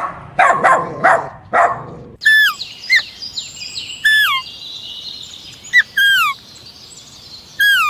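A small dog barking a few times, then a bird giving a series of short chirps, each sliding down in pitch.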